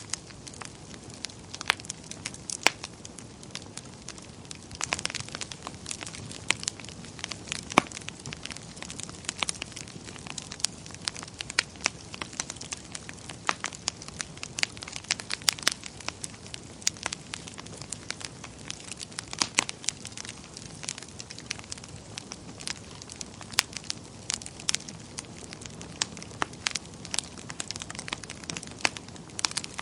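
Fire in a fireplace crackling steadily, with many irregular sharp pops and snaps over a low, even background of flame noise.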